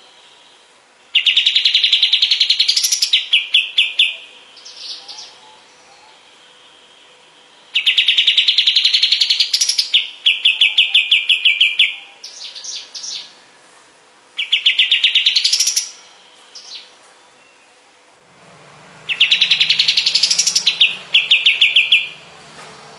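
Kapas tembak bird singing: four loud phrases of fast, rattling trills that rise in pitch, each about two to four seconds long, with a few softer notes between them.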